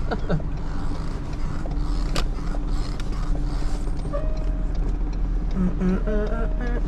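Creaks and squeaks from inside a tow truck's cab as it rolls slowly, over the steady low drone of its engine, with one sharp click about two seconds in.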